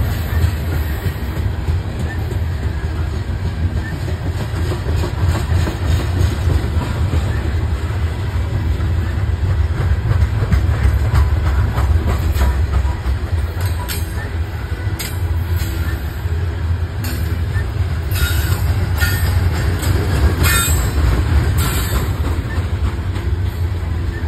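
Loaded coal hopper cars of a long freight train rolling past, a steady low rumble of steel wheels on rail. Short sharp squeaks and clicks from the running gear come several times in the latter half.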